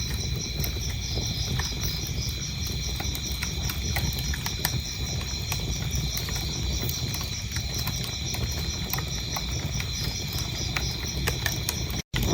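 Wood fire crackling, with a low steady rumble and irregular sharp pops, over crickets chirping in a fast, even pulse. The sound cuts out briefly near the end, then resumes.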